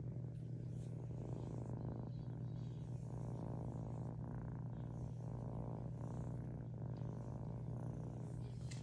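Kitten purring steadily without a break.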